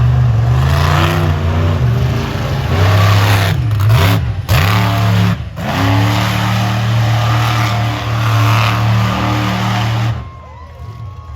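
Monster truck engine revving hard, its pitch rising and falling with the throttle, with a few sharp blips and cuts in the middle; the engine sound falls away sharply about ten seconds in.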